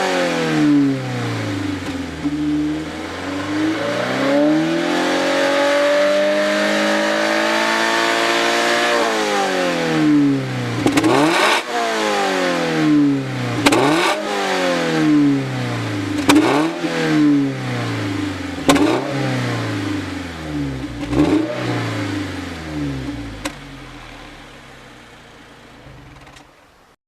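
Toyota GR86 / Subaru BRZ 2.4-litre flat-four engine through a Kakimoto Class KR Dual exhaust with centre pipe, being revved. The revs make one long slow climb that drops back about nine seconds in, then come a run of quick blips every two to three seconds. The sound fades away near the end.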